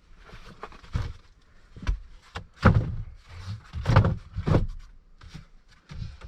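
Several knocks and thumps at irregular intervals, like objects being handled and set down.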